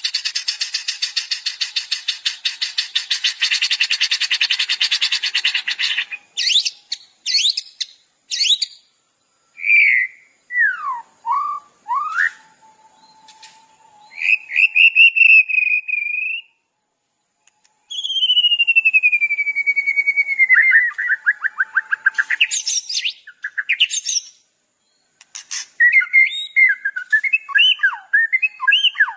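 Masteran recording of songbird calls: a dense, rapid buzzing trill for about six seconds, then separate sharp chirps and whistles, a long falling whistle around the middle, and quick varied chattering near the end.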